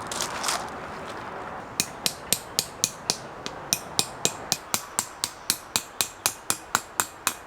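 Tarp peg being hammered into the ground with quick, regular strikes, about three to four a second, starting about two seconds in after a short stretch of rustling.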